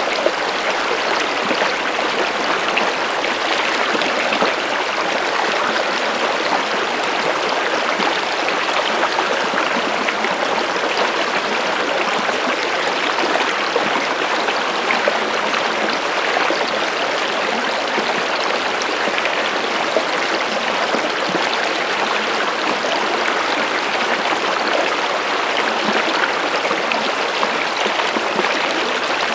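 Stream water running steadily, an even, unbroken splashing and babbling.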